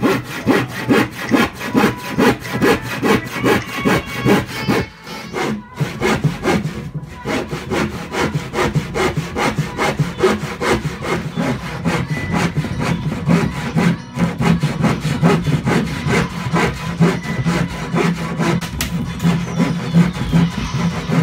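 Compass saw cutting through a plywood sheet by hand, in steady back-and-forth strokes at about two to three a second.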